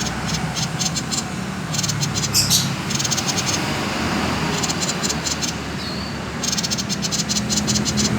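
Common iora (sirtu/cipow) giving its fast rattling 'konslet' call: several bursts of rapid, evenly repeated high notes with short pauses between them. A steady low hum runs underneath.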